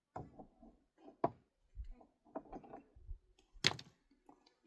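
Scattered knocks and clicks of objects being handled, with a sharp knock about a second in and a louder crack near the end.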